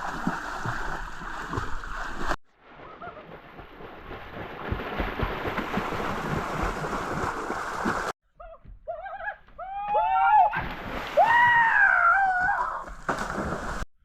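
Water splashing and sloshing, cut between clips, then several short high cries gliding up and down, with two long wavering ones near the end.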